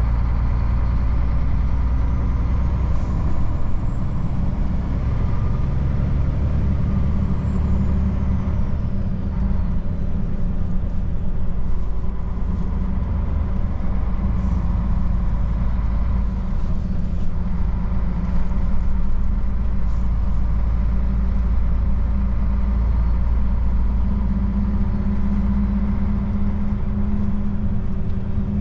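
Old Mercedes truck's diesel engine running under way, a steady low rumble. A faint high whistle rises and then falls over the first several seconds.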